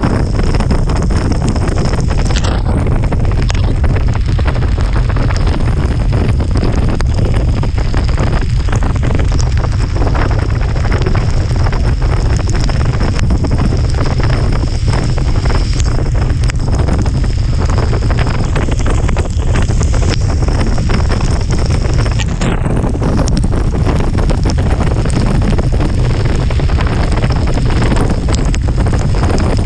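Steady rain with wind buffeting the microphone, a constant heavy rushing noise with a deep low rumble.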